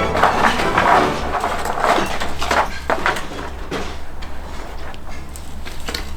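Old wooden floorboards of a daecheong floor creaking and scraping as they are pried apart, with scattered knocks, loudest in the first second.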